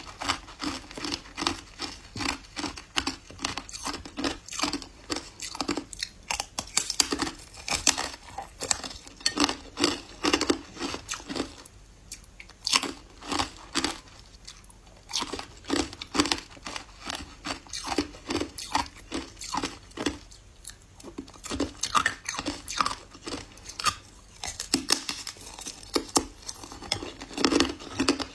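Close-miked ice crunching and chewing in the mouth, the ice dusted with matcha powder. Sharp, irregular crunches come several a second, broken by two brief pauses.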